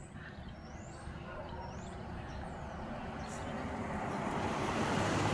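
A car passing on the road, its engine and tyre noise swelling steadily to a peak near the end. A few short, high bird chirps sound in the first couple of seconds.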